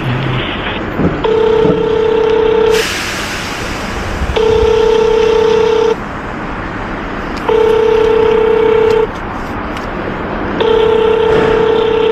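Phone ringback tone from a phone's speakerphone while an unanswered call rings out. It is a steady mid-pitched beep about a second and a half long, repeated four times with pauses of about the same length, over street background noise.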